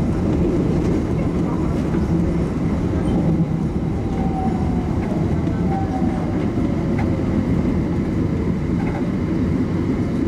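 Airport shuttle train (driverless people mover) running along its guideway, heard from inside the car: a steady low rumble of running noise.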